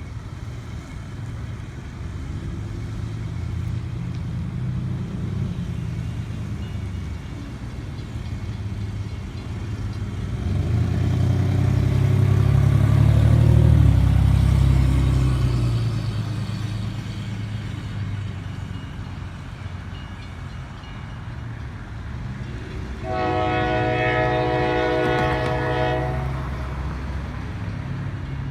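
Mid Michigan Railroad locomotive passing with a low engine rumble that swells and fades. About twenty-three seconds in, its air horn sounds one chord blast of several notes lasting about three seconds.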